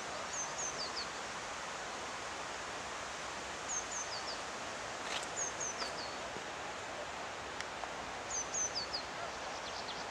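A small songbird calling repeatedly: four short phrases of very high, thin notes that drop in steps, a few seconds apart, over a steady background hiss.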